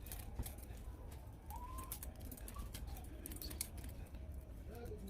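Irregular light clicks and taps, like small objects being handled, over a steady low hum, with a few short faint chirps.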